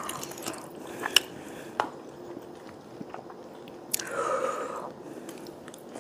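Close-miked chewing and mouth sounds of a person eating spicy stir-fried noodles, with a few sharp clicks in the first two seconds and a louder sound lasting about a second around four seconds in.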